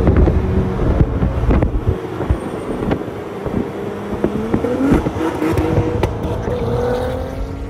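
Performance car engines running hard on the road, their pitch climbing in several rising runs through the second half as the cars accelerate. A few sharp thumps come in the first two seconds.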